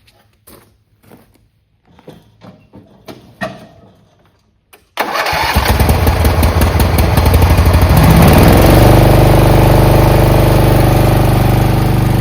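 A few faint clicks and knocks, then, about five seconds in, a zero-turn mower's engine cranks on the starter for about three seconds, catches and settles into a steady loud run.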